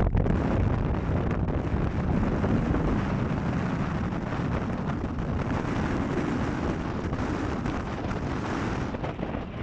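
Jet engine roar from an Airbus A220's Pratt & Whitney PW1500G turbofans, rising suddenly at the start and then holding steady, mixed with a heavy rumble of wind buffeting the microphone.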